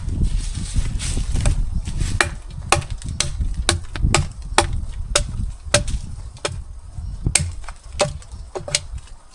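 Repeated sharp chopping strikes on wood, roughly one to two a second at an uneven pace, over a low rumble of wind on the microphone.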